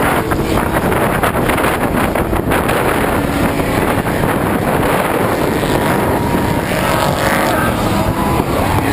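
Engines of 1450-class off-road race trucks running hard on the track, a loud, steady engine noise with wind on the microphone.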